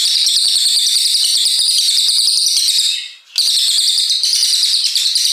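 Cililin coklat songbird singing a long, very rapid, high-pitched run of notes. It breaks off for a moment about three seconds in and then resumes.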